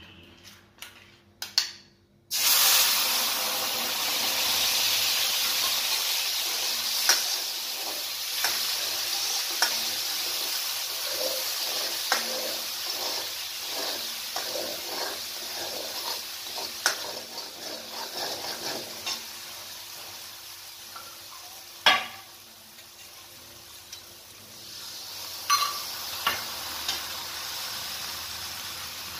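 Wet spice paste poured into hot oil in a kadhai (wok), bursting into a loud sizzle about two seconds in that slowly dies down as it fries. A metal ladle stirs it, with scattered knocks and scrapes against the pan, one sharp knock about three-quarters of the way through.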